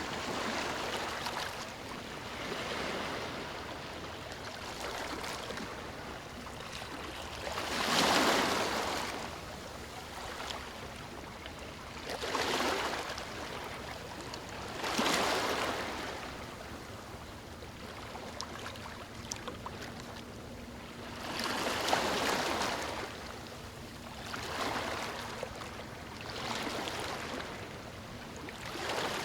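Ocean waves breaking on a beach, each one a rushing surge of surf that swells and fades over a second or two, coming every few seconds over a steady wash of water.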